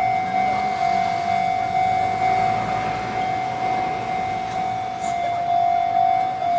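Railway level-crossing warning alarm sounding a steady high tone.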